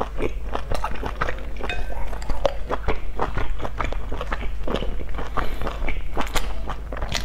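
Close-miked chewing of dumplings: a dense, irregular run of wet mouth clicks and smacks, with a few sharper clicks from chopsticks against a metal dipping bowl.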